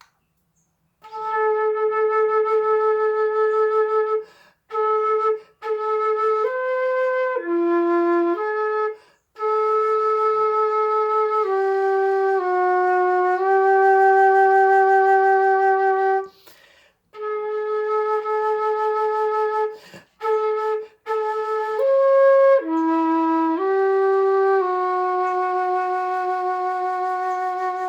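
Unaccompanied solo melody on a flute-like wind instrument, played in slow phrases of long held notes with short breaks for breath between them.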